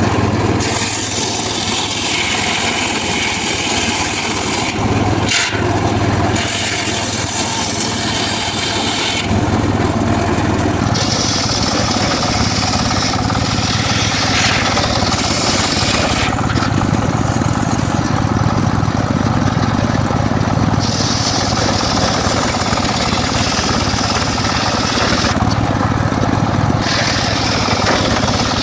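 Engine-driven homemade circular saw running steadily while its blade rips through mahogany. The high-pitched cutting noise comes and goes in stretches of a few seconds as each cut is made, over the constant drone of the driving engine.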